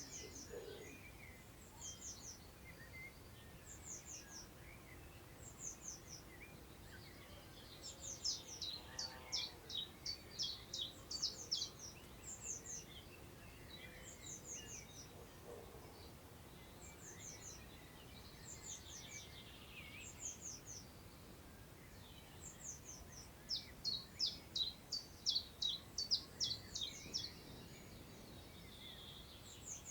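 Wild birds singing in countryside, faint, over a soft steady outdoor hiss. High, short, falling notes repeat in phrases, with two longer fast runs of notes, one about a third of the way in and one near the end.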